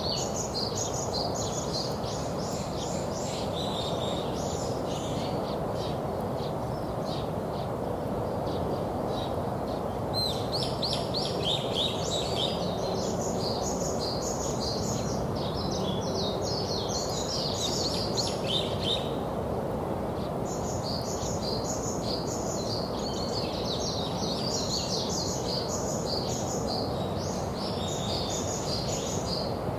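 Black skimmer chicks peeping: rapid high chirps in dense runs, thinning out about a quarter of the way through and pausing briefly about two-thirds through, over a steady background rush.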